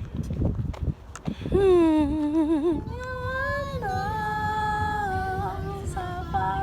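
A woman humming, first a wavering run of notes, then long steady held notes, over a low rumble of breeze on the microphone.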